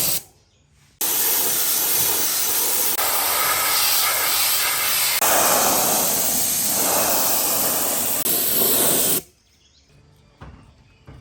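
Compressed air hissing from an air tool, such as a spray gun or blow gun. It stops briefly just after the start, comes back at about one second, runs steadily for about eight seconds, then cuts off, leaving a couple of faint knocks.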